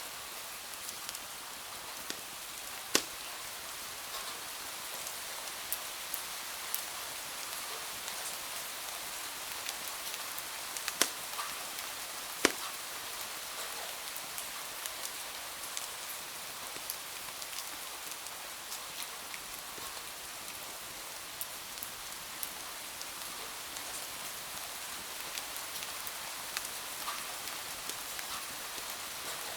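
Steady rain hiss from rain falling on windows, with scattered sharp crackles and pops from a wood fire; a few of the pops stand out loudly, about 3, 11 and 12 seconds in.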